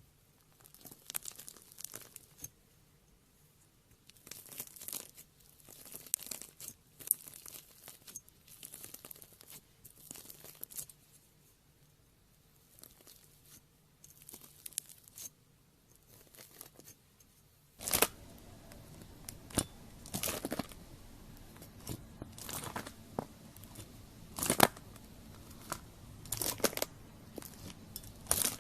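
A knife cutting into crunchy slime, giving irregular bursts of crackling and popping. About two-thirds through, a steady hiss rises under the sound and the crackles get louder.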